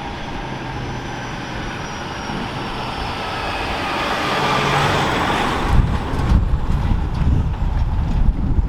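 A heavy truck passing close by, its tyre and engine noise growing louder with a slowly falling whine and peaking about five seconds in. After that, wind buffets the microphone.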